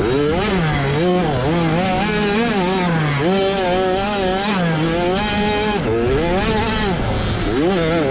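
A 65cc two-stroke motocross bike engine revving hard and dropping back over and over as the rider works the throttle through the track. There is a longer sustained pull in the middle.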